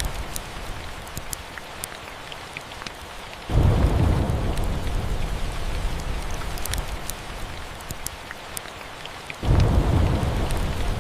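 Steady rain with scattered sharp clicks, and thunder rumbling in twice: once about three and a half seconds in and again near the end. Each rumble starts abruptly and fades slowly.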